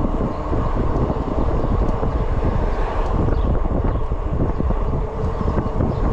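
Steady wind rush buffeting the microphone on an e-bike cruising at about 21 mph, a constant low rumble with no break.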